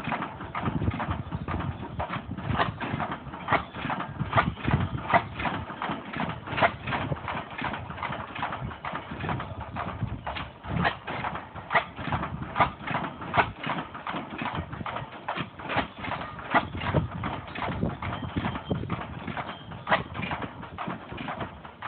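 1905 International Harvester 6 hp Famous single-cylinder gasoline engine running, a string of sharp knocks and clicks at about two a second, not quite even.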